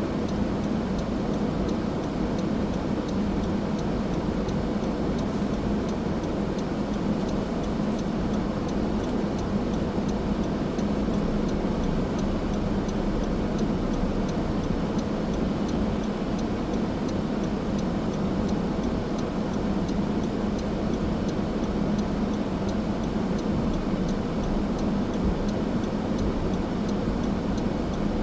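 Car driving at a steady speed: a continuous engine hum and road noise from the tyres, unchanging throughout.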